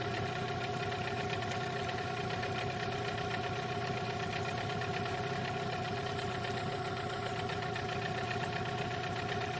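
Outboard boat motor running steadily at constant revs during its break-in, an even drone that holds the same pitch throughout.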